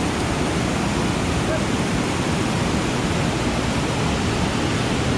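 Water rushing steadily over a waterfall and rock waterslide, an even, unbroken noise.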